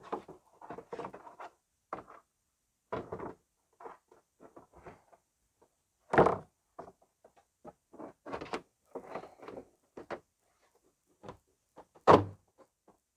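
A Husky plastic wheel well liner being handled and pushed up into a truck's rear wheel well, with scattered knocks and scraping of plastic against the wheel well. Two louder thumps come about 6 and 12 seconds in.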